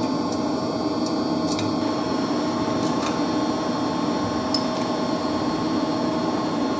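Steady mechanical hum of running heating-system machinery, with several constant tones and a few faint clicks.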